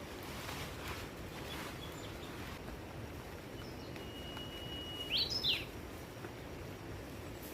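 A bird calling over a steady background hiss: a few faint short high notes, then about five seconds in a held whistle that breaks into two or three quick notes sweeping up and down.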